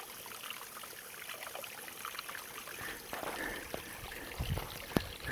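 Small waterfall trickling and running over rock, with a single sharp tap near the end.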